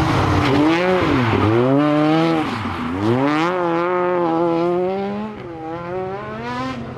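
Rally car engine at high revs on a gravel or snow stage: its pitch dips sharply twice, about a second and a half and just under three seconds in, climbing back each time, then holds steady as the sound fades near the end.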